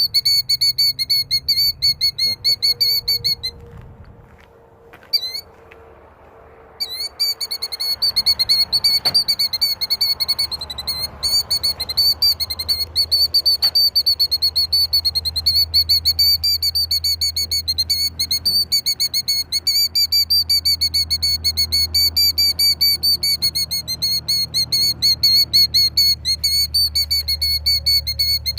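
Killdeer giving its alarm call over its nest of eggs: a rapid, unbroken string of high, shrill notes. It breaks off for about three seconds soon after the start, then carries on.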